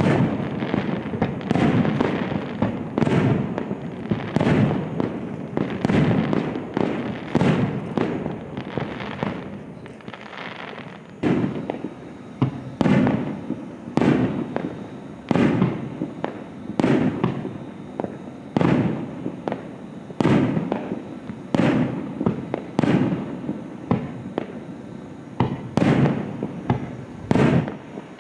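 Fireworks display: aerial shells bursting in rapid succession. The bursts thin out and quieten about ten seconds in, then come again as separate bangs roughly every second.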